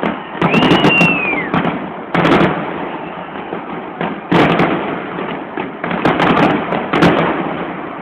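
Fireworks display bursting: about eight sharp bangs at irregular intervals, with a whistle that rises and then falls about a second in.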